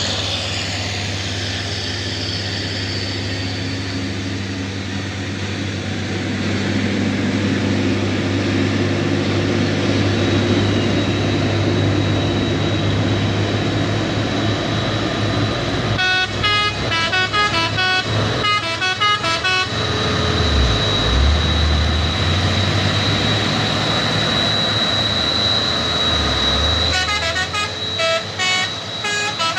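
Truck engine running steadily with a low hum, and a multi-tone musical horn of the telolet kind sounding twice, each time a quick run of changing notes: about halfway through and again near the end.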